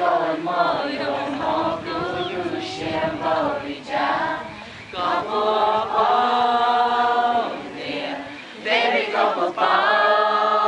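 A group of people singing together, unaccompanied, with long held notes in the middle and again near the end.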